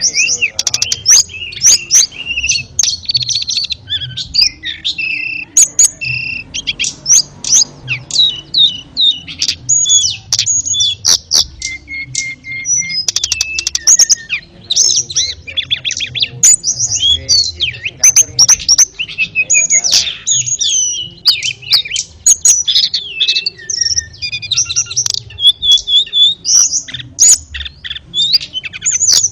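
Tledekan songbird singing nonstop in quick, varied phrases of chirps, trills and short whistled notes, with sharp clicking notes mixed in.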